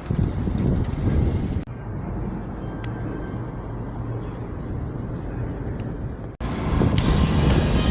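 Low rumbling wind and road noise from riding a bicycle through city streets, broken by two abrupt cuts. A louder, brighter stretch starts near the end.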